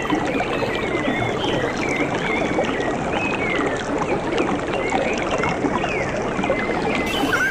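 Steady splashing and gurgling of flowing water, with small birds chirping repeatedly over it.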